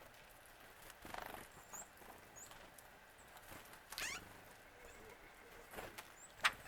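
Faint, scattered bird calls: a few very short high chips and a couple of harsher notes, the sharpest near the end.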